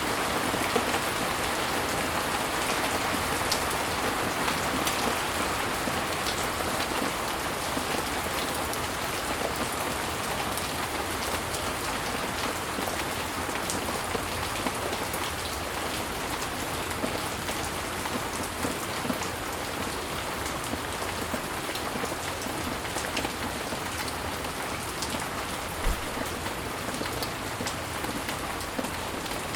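Steady rain: a dense, even hiss with many sharp individual drop ticks scattered through it, and one brief low knock near the end.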